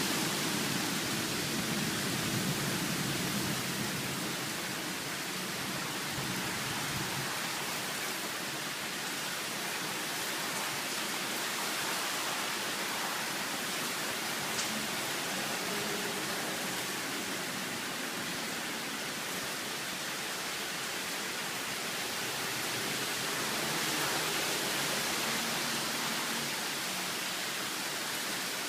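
Strong wind blowing, a constant rushing noise that swells slightly now and then.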